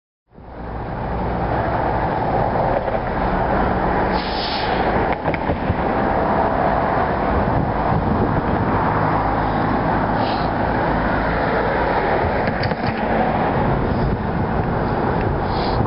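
BNSF diesel locomotives running steadily as they pull an empty coal train slowly along the track, with a few brief hissing swells.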